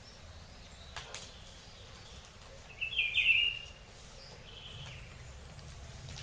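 A short burst of high chirping calls about three seconds in, then a fainter chirp about a second and a half later. Two sharp clicks come about a second in.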